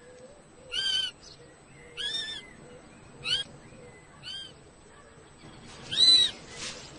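Kestrel chicks calling: about six short, high calls roughly a second apart, the loudest near the end.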